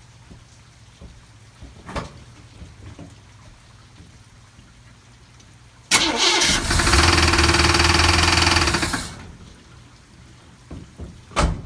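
Small-block Chevy V8 starting about halfway through, running for about three seconds with a pretty loud rattling noise, then being shut off and dying away; the rattle came on after a cylinder hydro-locked with gasoline on starting. A single sharp knock near the end.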